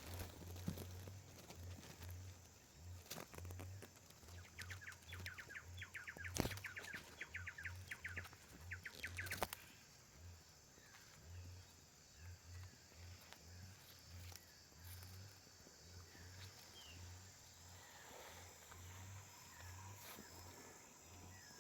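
Faint countryside ambience: a bird gives a rapid trill of short, evenly repeated notes for about five seconds, with a couple of sharp clicks during it, then scattered faint chirps. A low rumble comes and goes underneath.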